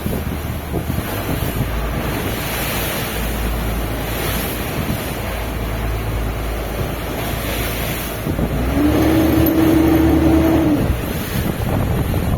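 Fishing boat under way in strong wind: wind buffets the microphone over the sea and the steady low hum of the boat's engine. About two-thirds of the way through, a steady whine slides up, holds for a couple of seconds, then stops.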